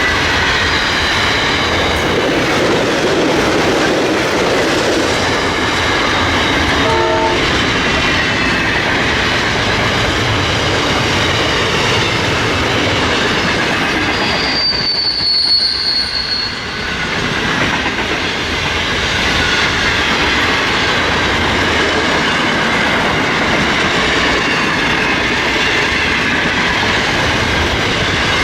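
Freight train wagons rolling past: a steady loud rumble and clatter of wheels on rail, with high wheel squeals throughout. A sharp, louder squeal comes about halfway through.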